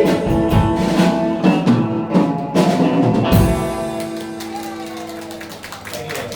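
Live rock band with drum kit and guitars playing the closing bars of a song: drum hits over held chords, a final crash about three seconds in, then the chord ringing out and fading.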